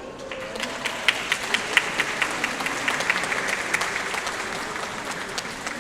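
Audience applauding at the end of a piece, the clapping swelling in the first second and slowly thinning out.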